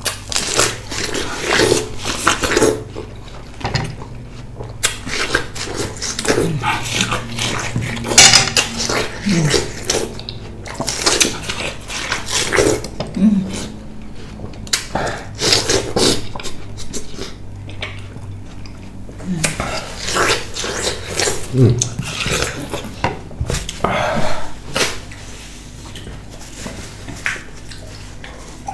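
Close-up eating sounds of people racing to finish their food: chewing and mouth smacking in irregular bursts, with a few short vocal sounds.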